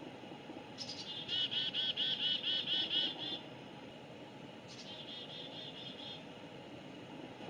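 A bird singing: two runs of quick, high, repeated chirped notes, about four or five a second, over faint outdoor background noise.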